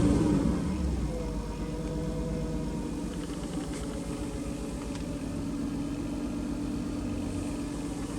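Honda NSX's 3.0-litre V6 with an aftermarket muffler coming down from a rev in the first second, then idling steadily.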